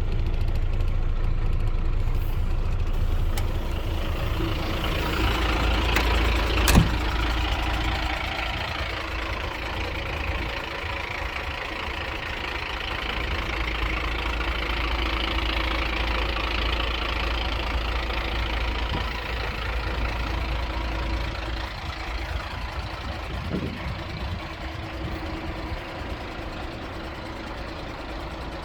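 Renault G230 truck's diesel engine idling steadily, with a single sharp click about seven seconds in and a fainter one near the end.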